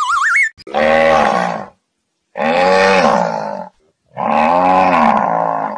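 Zebu bull bellowing three times, each long call about a second and more, rising and falling in pitch, with short silences between. It opens on the end of a wobbling, rising cartoon whistle effect.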